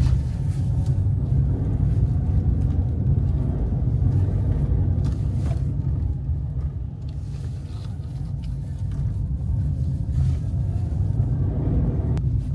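Low, steady rumble of a car being driven, heard from inside the cabin, with a few light knocks.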